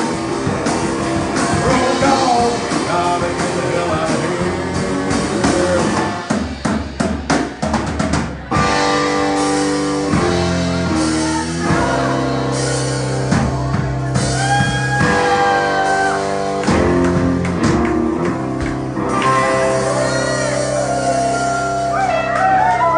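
Live rock band, drum kit and electric guitar with singing. About six seconds in the band breaks into a run of short stop-start hits, then holds long ringing chords with sliding guitar notes.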